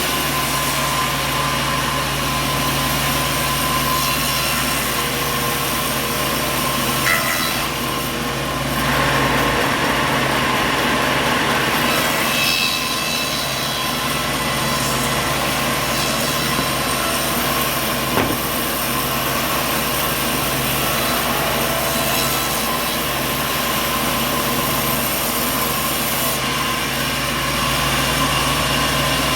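Sawmill machinery running steadily: a continuous mechanical din with a steady hum, its character shifting slightly about a third of the way in, and two brief knocks.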